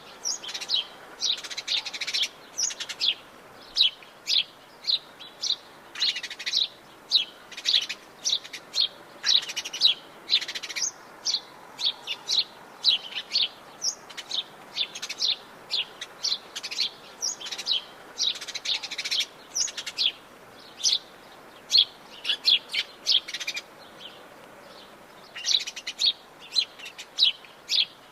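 Several birds in the Atlantic Forest chirping and calling in short, quick, high notes, one after another, over a faint steady hiss.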